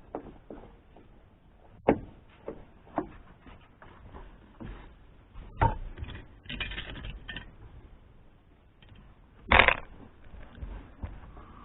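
Scattered clicks, taps and knocks of hands working loose car interior trim, with a short scraping rustle about six and a half seconds in and one loud knock near the ten-second mark.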